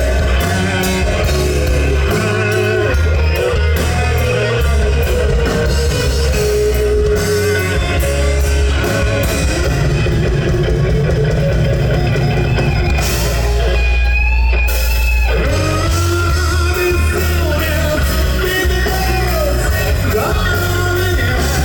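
Rock band playing heavy rock: electric guitars, bass and drum kit with a vocalist singing, and a short break in the melody about two-thirds of the way through.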